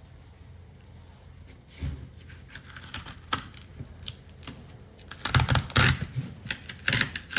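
Duct tape being peeled off a heat-softened coated panel: a few faint crackles, then from about five seconds in a series of loud, short ripping pulls.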